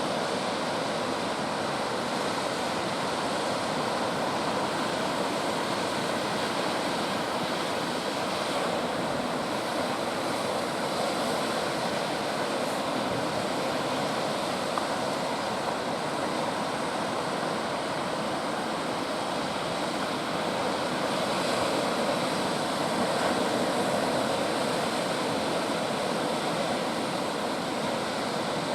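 Big ocean waves breaking on the shore, a steady rush of surf noise that swells a little about three-quarters of the way through.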